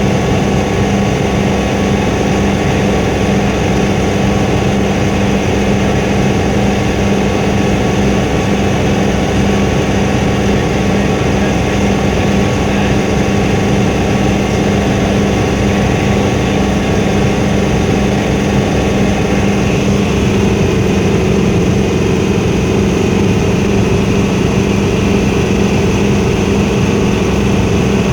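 Helicopter in flight, heard from inside the cabin: a loud, steady drone of engine and rotor with a low hum. The tone shifts slightly about two-thirds of the way through.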